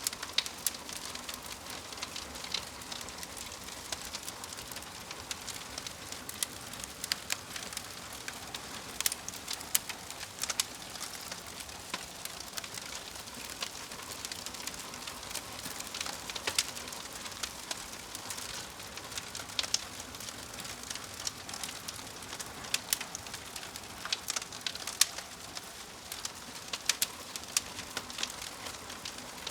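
Wood fire crackling, a steady hiss broken by frequent sharp, irregular pops and snaps.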